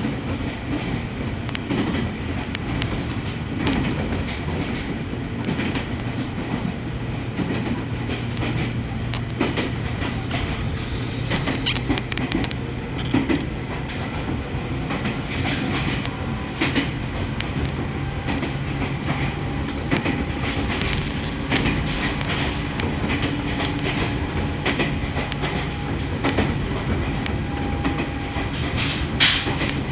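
Ohmi Railway electric local train running along the track, with a steady low hum and wheels clicking over the rail joints, heard from inside the car.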